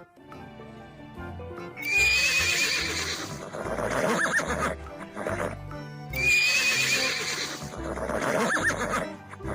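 Zebra call, a squealing, horse-like whinny, played twice in the same form about four seconds apart over background music.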